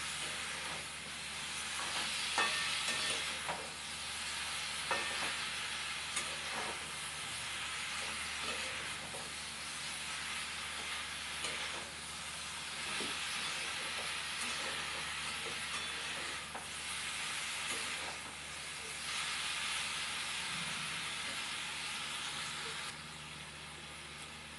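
Chalta (elephant apple) pieces sizzling in hot mustard oil in a metal karai while a metal spatula stirs and turns them, with a few sharp knocks of the spatula on the pan. The sizzle swells and eases in waves with the stirring and drops a little near the end.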